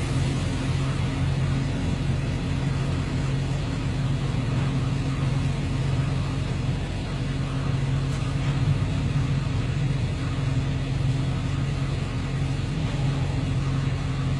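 A vehicle engine running steadily, with a low, even drone that holds the same pitch throughout.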